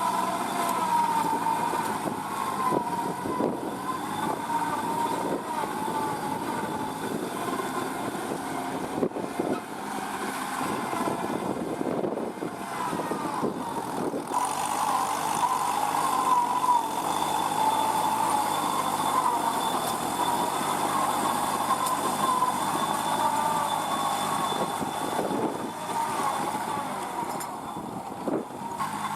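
Kubota NeoStar B2441 mini tractor's three-cylinder diesel engine running continuously, with a whine that wavers slightly in pitch and occasional short knocks.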